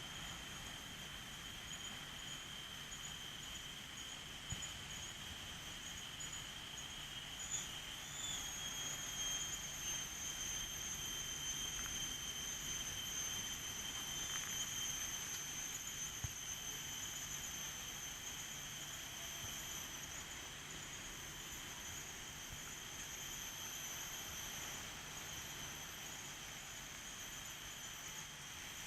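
A steady, high-pitched drone of insects over a soft, even background hiss, with a few faint ticks.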